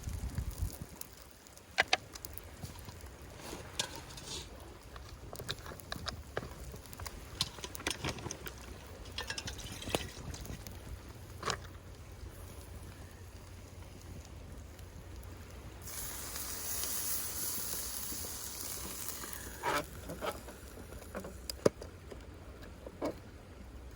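Campfire with scattered sharp crackles and clicks, over a low steady background; a few seconds past the middle a hiss swells for about three seconds, then fades.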